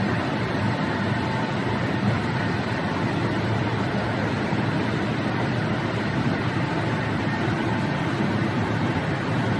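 Risense CC-695 tunnel car wash machine running, a steady, even rushing noise of its motors and water.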